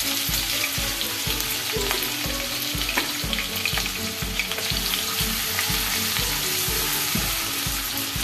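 Ginger-garlic paste frying in hot oil in a kadhai, a steady sizzle with scattered small pops and crackles.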